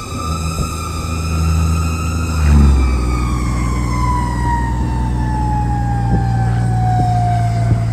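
Fire engine siren wailing: one long tone that rises a little for the first two and a half seconds, then falls slowly. Underneath, the truck's engine runs steadily, its note shifting about two and a half seconds in.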